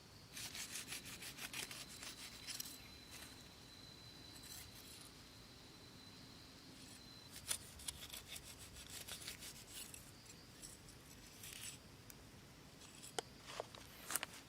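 Quick, rhythmic scraping strokes on wood, about six a second, in two runs with a pause between and a few sharper knocks near the end. A faint steady high whine sounds under the first half.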